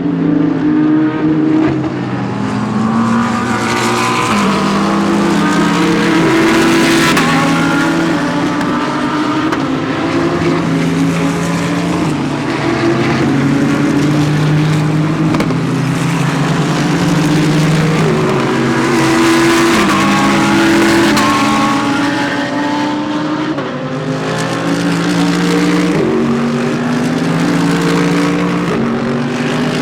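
GT3 race cars passing at racing speed, several engines at once, their notes climbing and stepping down with each upshift as the cars accelerate away, with swells as cars go by.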